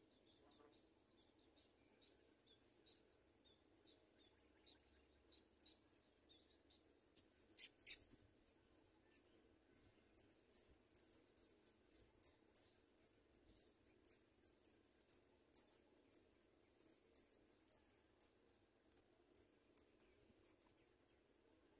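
House sparrow nestlings cheeping, faint at first. After a brief rustle about eight seconds in, they break into rapid, very high-pitched begging cheeps, several a second, as they are fed.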